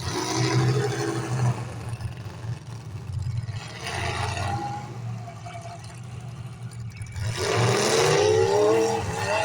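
Demolition derby cars' engines revving hard, climbing in pitch as they accelerate: once at the start and again from about three-quarters of the way in. Under the revs runs a steady low drone of engines.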